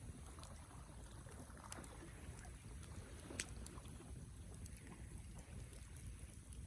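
Wood campfire burning: a low rush of flame with scattered crackles, the sharpest pop about three and a half seconds in.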